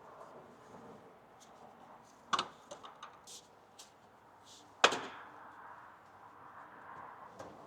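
A few sharp clacks and knocks from hand work: a quick cluster of clacks a little over two seconds in, then one loud single knock about five seconds in, over a faint steady background.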